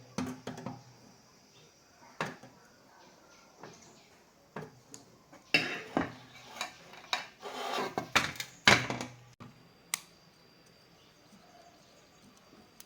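Irregular clicks, clinks and knocks of small hard tools and parts being handled and set down during electronics repair work, busiest in the middle few seconds and sparse near the end.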